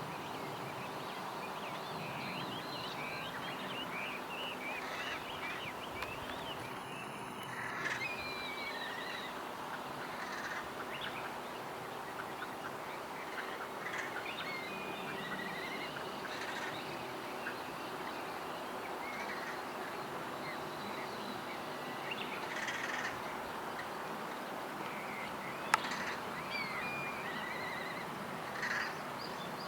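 Crows cawing in harsh calls every few seconds over a steady chatter of small birds chirping and twittering. A single sharp click near the end.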